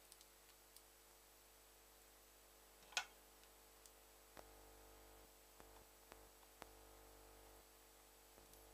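Near silence with a few scattered faint clicks of a computer mouse's buttons, the sharpest about three seconds in.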